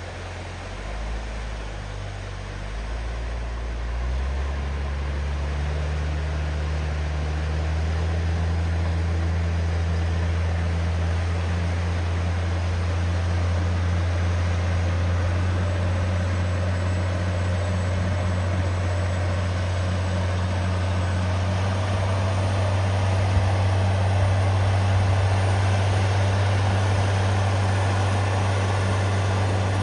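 Tractor engine running under load. Its low note shifts over the first few seconds, then settles into a steady drone that grows louder until about eight seconds in and holds.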